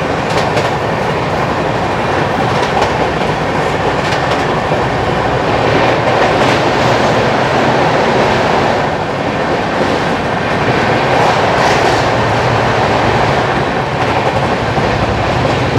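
Passenger coach of a moving express train running along the track: a steady, loud rumble of wheels on rail with clicks over the rail joints.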